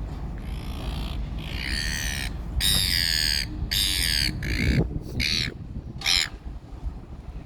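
A bird calling six times in quick succession, each call a harsh note of under a second, over a steady low rumble. The calls stop a little after six seconds in.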